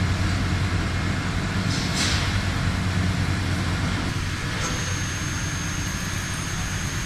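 Heavy industrial machinery running with a steady low hum, a short hiss about two seconds in, and a thin high whine that starts about four and a half seconds in.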